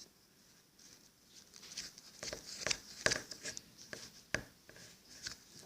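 Slime being worked: a run of irregular soft clicks and sticky pops, starting about a second and a half in.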